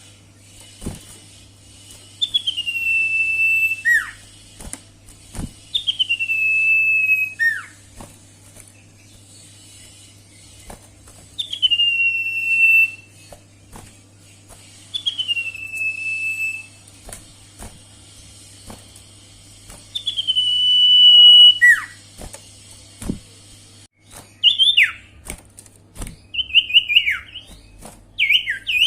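Sirtu bird song: long whistled notes that drop quickly and then hold steady, some ending in a short falling note, repeated every few seconds. Near the end come quicker runs of short falling notes. A steady low hum lies beneath.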